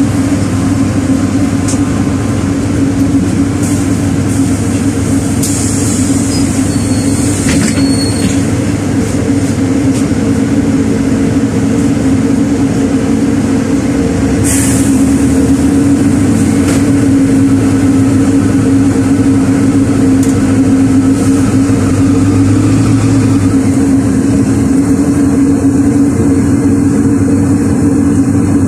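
LiAZ 4292 city bus running, heard from inside the cabin: a steady engine and drivetrain hum that grows a little louder about halfway through. A hiss comes about a fifth of the way in, and a short sharp burst of noise about halfway.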